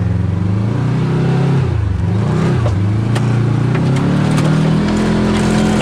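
Can-Am Maverick X3 side-by-side's turbocharged three-cylinder engine running under varying throttle on a rough trail, its pitch dipping about two seconds in, then climbing and holding high. A few sharp clicks sound over it in the second half.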